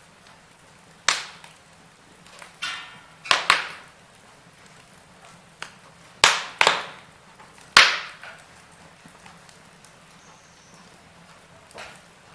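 Wood fire crackling in a fireplace: a string of sharp pops and snaps at uneven intervals, the loudest ones just past the middle, over a faint steady hiss.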